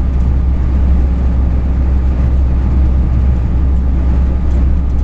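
Steady low drone of a truck's engine and road noise while driving, heard from inside the cab.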